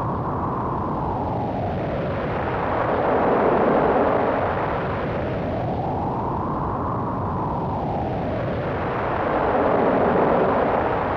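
Wind sound effect: a steady rushing noise whose whistling pitch sweeps slowly down and back up, about one fall and rise every six seconds, swelling slightly at the low points.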